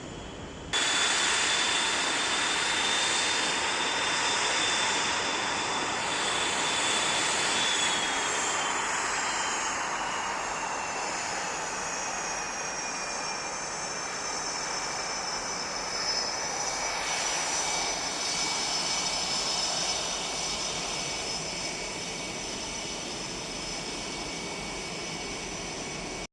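F/A-18 Hornet's jet engines running with a high whine over a steady rush, cutting in abruptly about a second in. Through the middle of the stretch the whine slowly falls in pitch, then holds steady.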